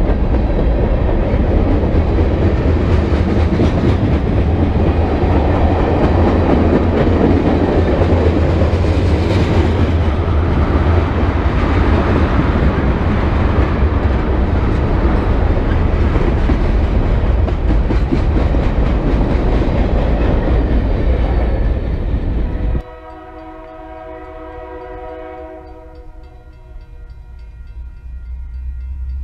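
Loaded freight cars (covered hoppers and tank cars) rolling past close by, a loud, steady rumble of steel wheels on the rails. It cuts off suddenly about two thirds of the way in, and a distant locomotive horn then sounds one held chord for about three seconds, from an approaching Union Pacific freight, with the train noise slowly growing louder near the end.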